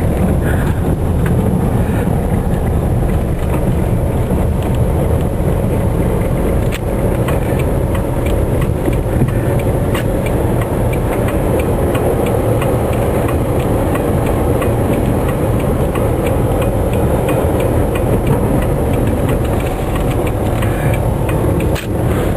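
Car driving through snowy streets, heard from inside the cabin: a steady low rumble of engine and tyres. A run of light, evenly spaced ticks sounds through the middle.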